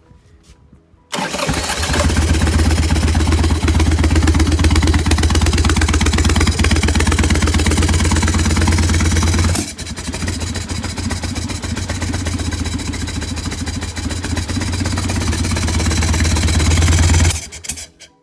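1981 Harley-Davidson XLH1000 Ironhead Sportster's 1000 cc V-twin engine running loud with a rapid, throbbing beat. It cuts in suddenly about a second in, dips briefly about halfway, and stops abruptly near the end.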